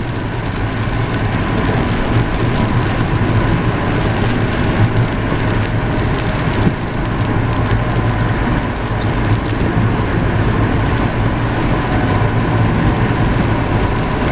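A car driving in the rain, heard from inside the cabin: a steady hum of engine and tyres on wet road.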